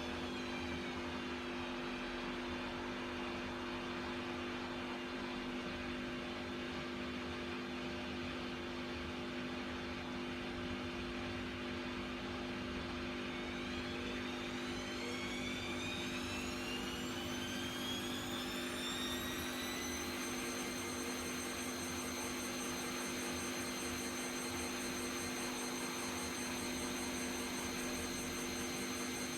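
Bosch WAK28260 washing machine spinning its drum at up to 1400 rpm, a steady mechanical hum with a motor whine that falls away at the start, rises from about halfway through and then holds high as the drum speeds up. The spin is a test for suspected worn drum bearings.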